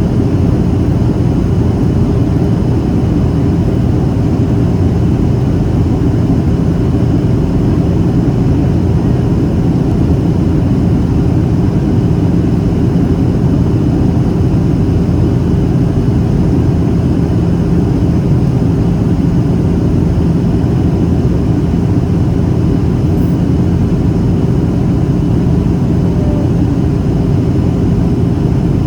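Steady cabin noise inside a Boeing 737-800 in flight: the even drone of its CFM56-7B turbofan engines and rushing airflow, heavy in the low end with a faint steady hum, unchanging throughout.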